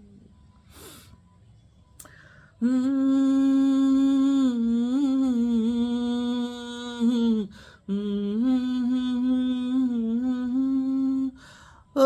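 A man's unaccompanied voice humming, with a breath drawn near the start. Two long held phrases follow, with a slight waver in pitch and a short break between them.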